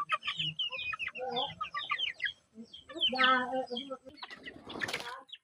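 Chickens clucking and calling in many short, quick calls, with one louder, longer squawk about halfway through. A loud burst of rustling noise comes a little before the end.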